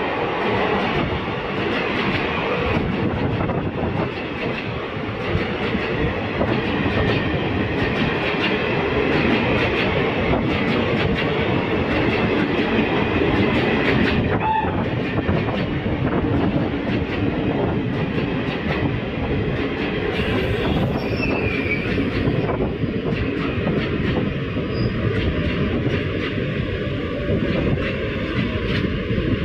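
Passenger coaches of an Indian express train rolling past, a steady rumble with the clickety-clack of wheels over rail joints.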